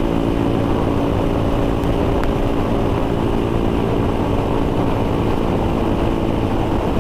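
Royal Enfield Thunderbird 350X single-cylinder engine running at a steady highway cruise, with a constant rush of wind noise over it.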